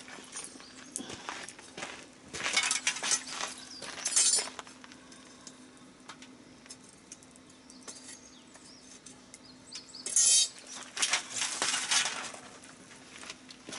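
Clinking and clattering of cookware or utensils in two bursts, one about two seconds in and one about ten seconds in, over a faint steady hum.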